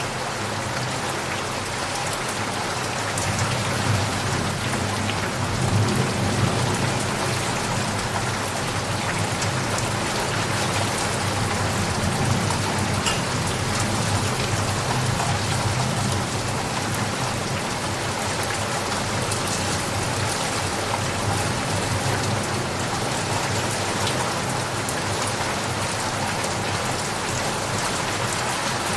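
Steady, dense rainfall, a continuous hiss of drops hitting surfaces, with a low rumble of distant thunder swelling a few seconds in and again near the end.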